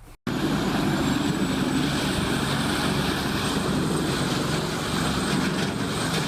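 CBI Magnum Force 8400 industrial wood grinder running at full throttle: a loud, steady engine-and-grinding drone that starts suddenly about a quarter second in, with a thin high whine above it.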